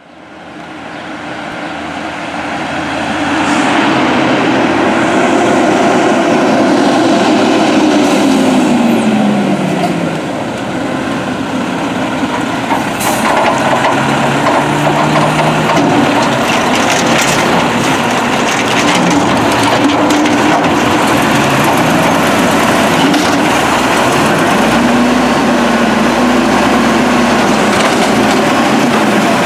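Garbage truck's diesel engine running and revving, its pitch rising and falling several times over a steady mechanical din.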